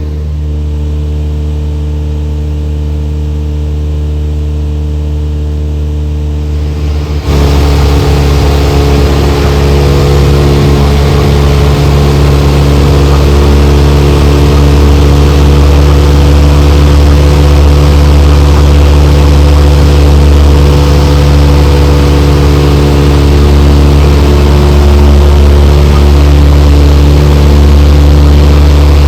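Small airplane's piston engine and propeller droning steadily, heard from inside the cabin. About seven seconds in it gets abruptly louder, with more rushing noise, and then holds steady.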